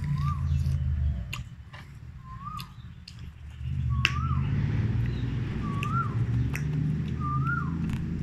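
Crisp crunching clicks of a sour bilimbi fruit being bitten and chewed. A bird's short whistle, rising then falling, repeats about every one and a half to two seconds over a low hum.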